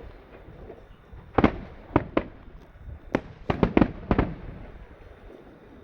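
Aerial fireworks bursting in a series of sharp bangs, each trailing off in a rumbling echo: one about a second and a half in, two close together around two seconds, then a quick cluster of five between three and four seconds.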